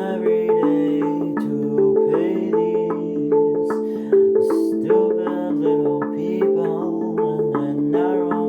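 Handpan being played: a steady run of struck notes, several a second, each ringing on and overlapping the next in a melodic pattern.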